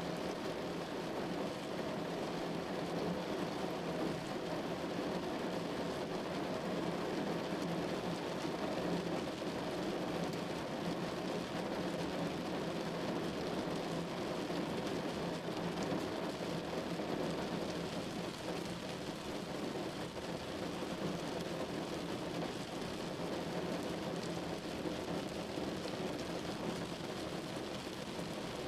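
Steady rain falling on a window glass, an even hiss with no breaks, fuller in the low-middle range than in the treble.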